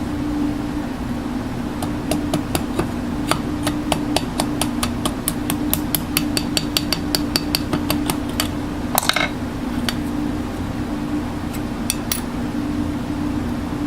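A quick series of light metal taps, several a second, for about six seconds, then a short scrape and a few scattered taps, over a steady mechanical hum.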